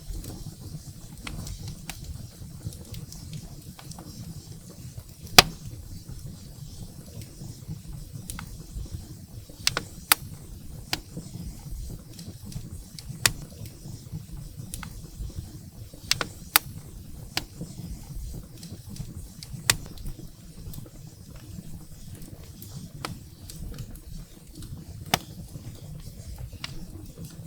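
Firewood burning in a fireplace: a low steady rumble of flames with sharp, irregular crackles and pops, the loudest about five seconds in.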